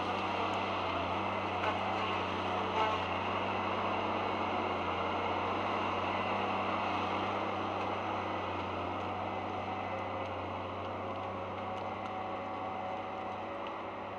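Diesel engine of a heavy forestry machine working a Woodcracker C550 felling head, running steadily with a low hum. Two light knocks come about two and three seconds in, and the engine eases slightly near the end.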